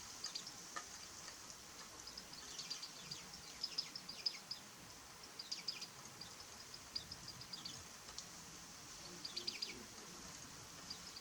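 Small songbird calling in scattered bursts of short, high, thin chirps, with the busiest runs about a third of the way in and again near the end.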